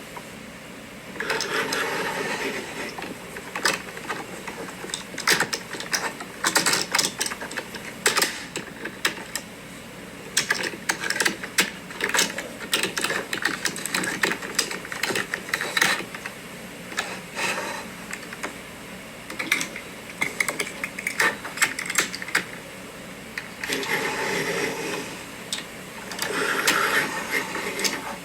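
Plastic toy truck haulers with die-cast cabs being handled: irregular clicks and clacks of plastic parts, with short stretches of scraping or rolling near the start and twice near the end.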